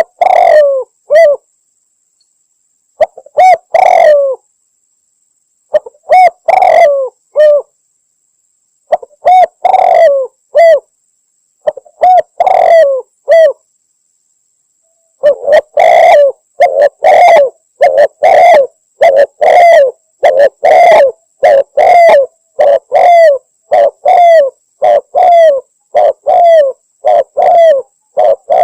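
Spotted dove (tekukur) cooing, a lure call that the title presents as a female calling to males. It starts with short three- or four-note phrases about every three seconds, then from about halfway through it coos over and over without a break.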